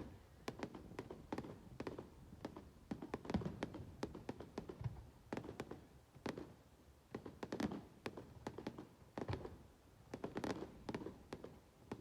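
Fireworks bursting in an irregular rapid series of faint sharp bangs and crackles, some with a short echoing tail.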